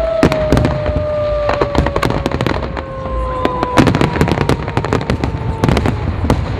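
Fireworks going off: rapid sharp cracks and bangs of bursting shells and crackers, several a second, with a long thin whistling tone sliding slowly down in pitch underneath.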